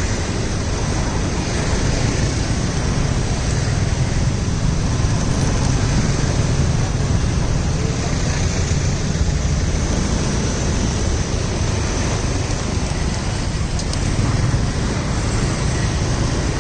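Steady road traffic noise mixed with wind buffeting the microphone, a continuous rumbling hiss with no distinct events.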